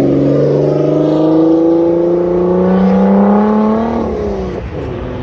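Car engine accelerating, its pitch climbing steadily for about four seconds, then falling away sharply near the end.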